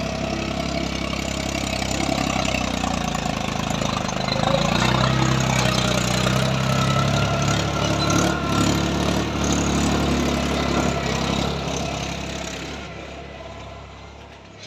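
Tractor engine running steadily, fading away over the last few seconds.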